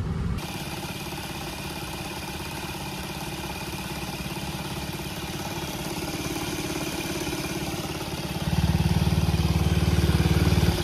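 Scooter engine running with its drive belt spinning on the CVT pulleys; it gets louder about eight and a half seconds in. The abnormal noise it makes is diagnosed as a worn crankshaft bearing.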